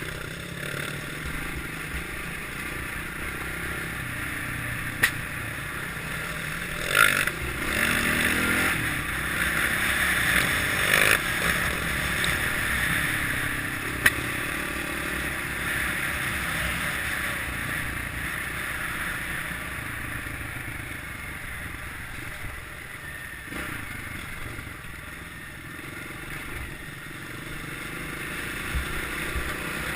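Kawasaki KLX650R's single-cylinder four-stroke engine running steadily during an off-road ride, over a rushing noise. A few sharp knocks and clatters break through along the way.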